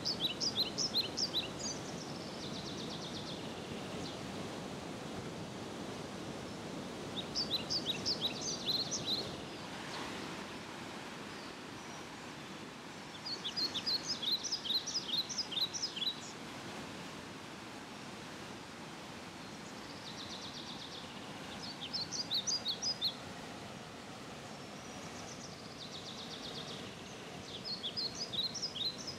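A songbird singing a short phrase of rapid high notes, repeated five times about every six to seven seconds, over steady outdoor background noise.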